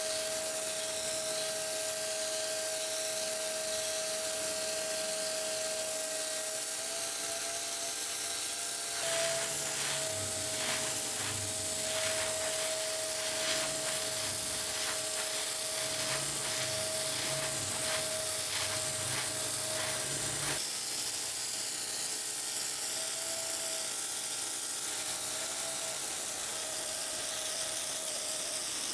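A small electric power tool running steadily with a constant whine over a hiss. From about 9 s to about 20 s it is worked against a surface, with a rapid run of irregular ticks and low thuds.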